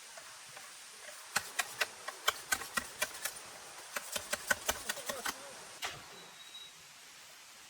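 Two quick runs of sharp knocks, about four a second, each lasting a second or two, with one more knock just after, over a steady faint hiss.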